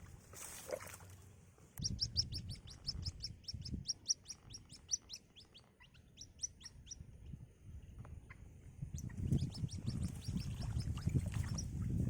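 Young birds chirping in rapid runs of short, high, falling chirps, about six a second, in two bouts. A low rumbling noise runs underneath and grows louder near the end.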